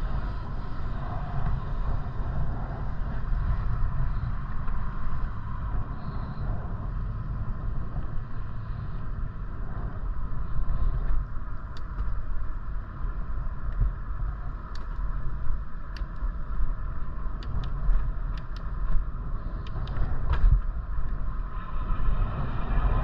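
Wind buffeting the microphone of a camera riding along on a moving bicycle, a steady low rumble with tyre and road noise. From about halfway a scatter of sharp clicks and ticks comes in.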